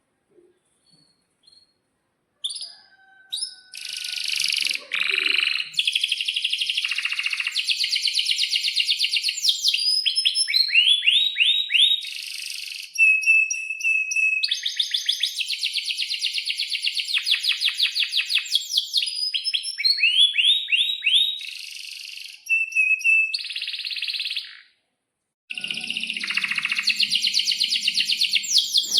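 Domestic canary singing a long, loud song of rapid trills, chirps and rising sweeps, starting a couple of seconds in. The song breaks off briefly near the end, then resumes with a low hum underneath.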